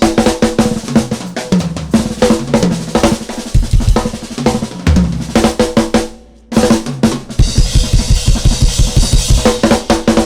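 Fast drum-kit-style percussion, kick, snare and cymbal strokes over a steady drone. It drops out briefly about six seconds in, then comes back with a run of quick, even low kick strokes.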